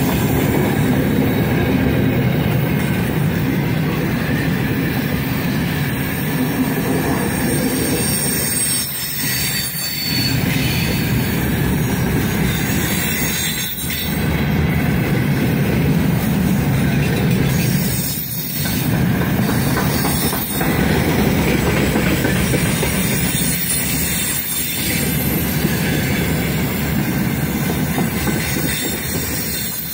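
Freight train of open gondola wagons rolling past close by: a loud, steady rumble and clatter of steel wheels on the rails, with a few short dips in level.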